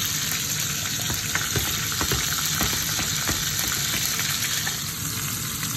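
Pork chops and sliced mushrooms frying in olive oil in a frying pan: a steady sizzle with many small pops and crackles throughout.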